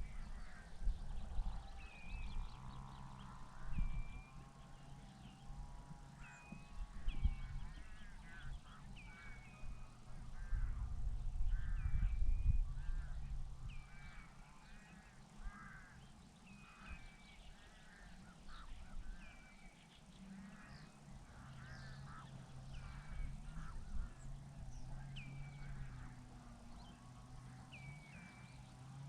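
Waterbirds at a lake calling over and over in short, sharp calls, several birds overlapping. Under the calls runs a low rumbling noise that swells loudest about ten seconds in.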